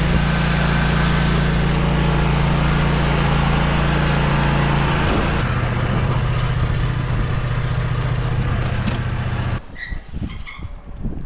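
A small gasoline engine runs steadily at speed, drops to a lower steady speed about halfway, then shuts off near the end. After it stops, wind noise and a few short high chirps are left.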